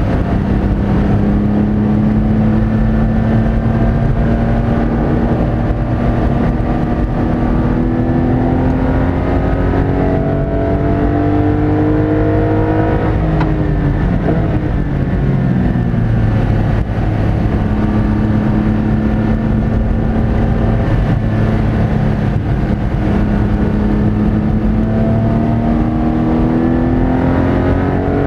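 Porsche Cayman engine heard from inside the cabin while lapping a race track, its pitch climbing slowly and steadily for about thirteen seconds through a long pull in gear. It then drops sharply as the car slows and changes down, holds steady for a while, and climbs again near the end.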